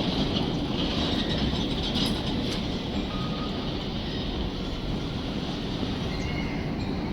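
Freight train rolling past on the rails: a steady rumble of wheels with a high hiss and a few faint clicks, slowly easing.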